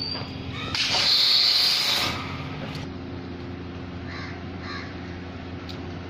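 A loud hissing burst of just over a second about a second in, then a crow cawing twice, half a second apart, over a steady low hum.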